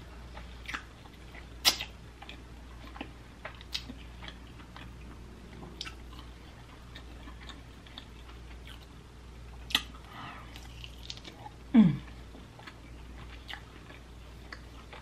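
Close-miked chewing and biting of sauced barbecue rib meat, with scattered wet lip smacks and mouth clicks. A short sound falling in pitch comes about twelve seconds in.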